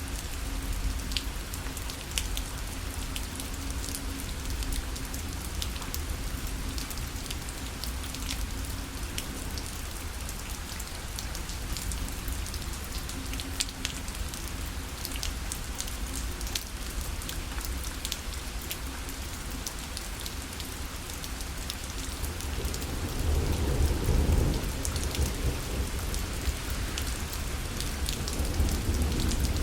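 Steady rain falling on a parasol, with many separate drops tapping on the fabric over an even hiss. A low rumble swells about three quarters of the way through.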